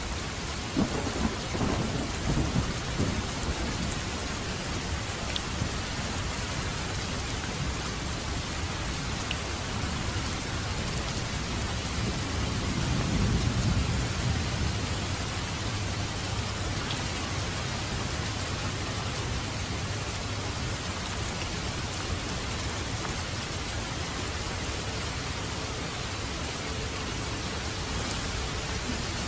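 Steady rain falling, with low rolls of thunder: one starting about a second in and another swelling around the middle.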